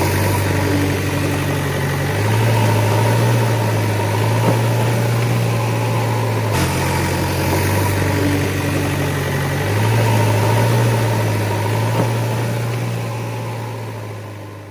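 Vehicle engine running steadily with a low hum that steps up and down in pitch a few times, then fades out near the end.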